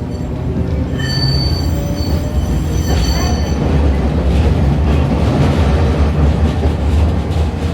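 Hiroshima Electric Railway 650-type tram no. 652 running, heard from inside the car: a steady low rumble of the running gear. From about one second in until about three and a half seconds, the wheels squeal with a high-pitched, ringing set of tones.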